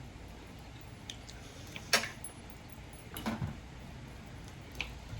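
A few short clinks of cutlery against a plate during a meal, the loudest about two seconds in.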